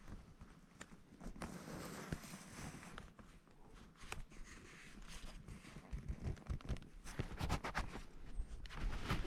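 Footsteps of a hiker on dry, crunchy ground, an uneven run of crunches and thuds that grows louder and closer together from about halfway through.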